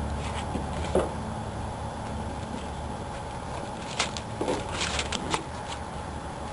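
A few sharp clicks and light taps, one about a second in and a quick cluster a little past the middle, over a steady low hum.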